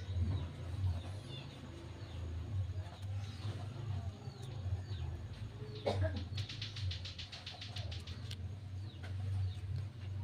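Birds chirping in short falling notes over a steady low hum, with a fast run of ticks lasting about two seconds, roughly six seconds in.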